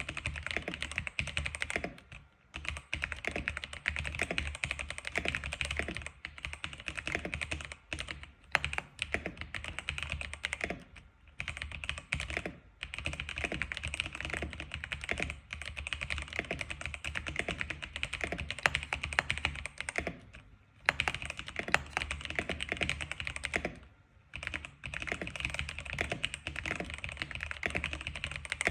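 Rapid, continuous typing on an X87 keyboard, a dense run of key clicks broken by brief pauses every few seconds.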